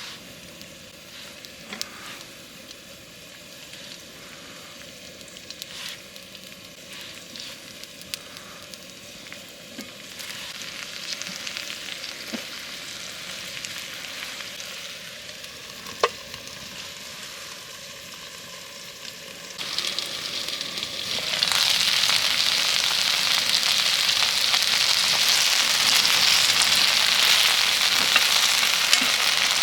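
Food frying on a hot ceramic plate over a campfire: a light sizzle with scattered crackles and clicks, then, about twenty seconds in, it jumps to a loud, steady sizzle.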